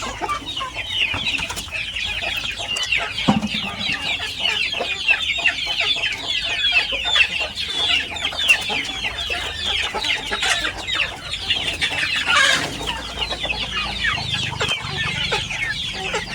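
A flock of village chickens calling together: many short, high calls overlapping in a steady, continuous chorus.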